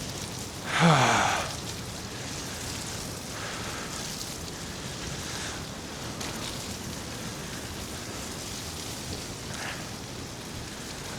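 Steady wet hiss of bicycle tyres rolling through slush. About a second in comes a short groan that falls in pitch.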